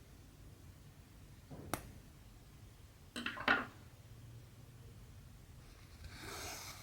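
Cross-stitch needle and cotton thread being worked through fabric: a sharp click a little under two seconds in, a short scratchy rasp about three seconds in, and a longer soft swish near the end.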